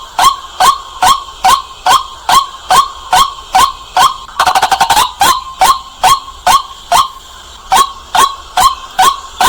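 White-breasted waterhen calling: one loud, sharp note repeated about twice a second, each dropping in pitch, with a quick stuttering run of faster notes about halfway through.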